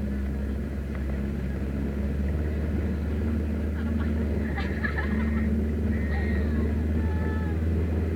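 Motorboat engine running with a steady low drone. Faint voices in the middle.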